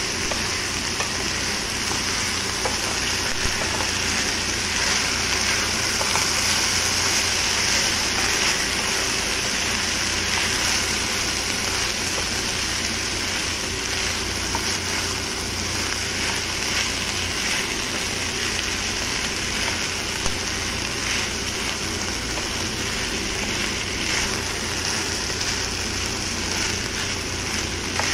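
Diced mixed vegetables (carrots, peas, green beans and corn) sizzling steadily in a frying pan while a wooden spatula stirs them.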